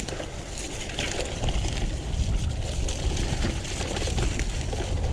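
Electric mountain bike riding down a wet, muddy trail: a steady rumble of wind and tyre noise on the camera microphone, with scattered clicks and rattles from the bike over rough ground.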